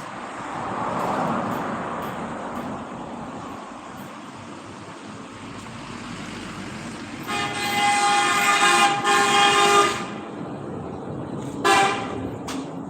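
Vehicle horn honking: one long blast of about two and a half seconds, briefly broken partway, then a short toot a couple of seconds later, over steady vehicle and road noise.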